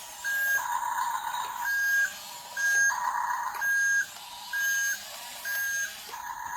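Electronic sound effect from a toy RC bulldozer's speaker: a short warning beep repeating about once a second, like a reversing alarm. Two louder bursts of hissy noise come between the beeps, near the start and about halfway through.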